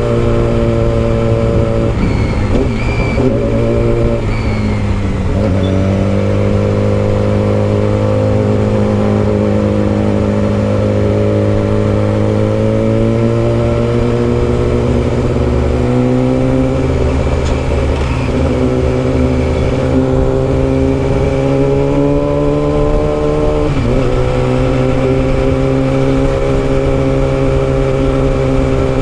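Yamaha R6 inline-four engine through a custom exhaust, running steadily under way. Its pitch dips briefly a few seconds in, creeps up over the middle stretch and drops suddenly about three-quarters of the way through, as the throttle and gears change.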